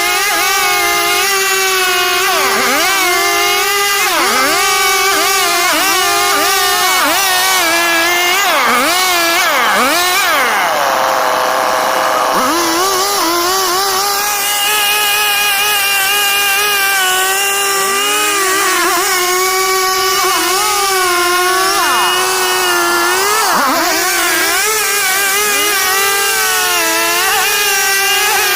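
STIHL two-stroke chainsaw running at high revs while cutting through wood. Its pitch sags again and again as the chain bites under load, then climbs back, with one deeper dip and a burst of rougher noise about halfway through.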